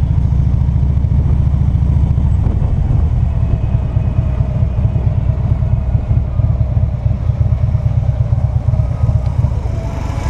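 Motorcycle engine running steadily while under way, with a dense low sound.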